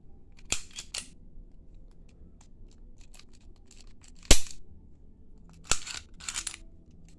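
Ruger EC9s pistol being handled after reassembly, its metal parts clicking and clacking, with one loud sharp clack about four seconds in and several smaller clicks around it.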